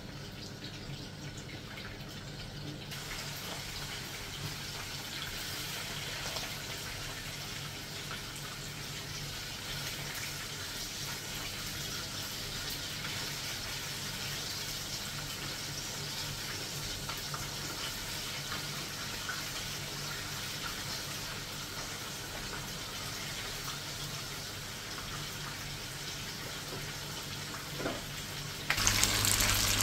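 Salmon pieces frying in hot oil in a frying pan: a steady sizzling hiss that grows fuller about three seconds in and jumps louder near the end.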